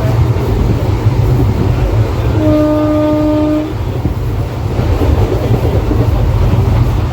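Passenger train running with a steady, loud low rumble. A train horn sounds once, about two and a half seconds in, for just over a second.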